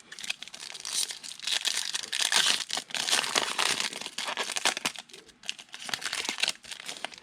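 Foil wrapper of a trading card pack being torn open and crumpled by hand: a dense crinkling and tearing that is loudest in the middle and thins out near the end.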